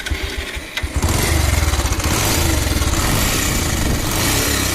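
Bajaj Pulsar 150's single-cylinder four-stroke engine running with an excessive mechanical clatter, picking up to a steady run about a second in. The noise comes from worn rocker arms, a worn timing chain and tensioner, the scissor gear and loose camshaft bearings.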